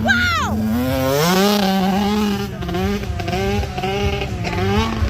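Motocross bike engine at full throttle. Its pitch drops steeply as a bike passes at the start, then it holds a high, steady note with small rises and dips as the rider works the throttle.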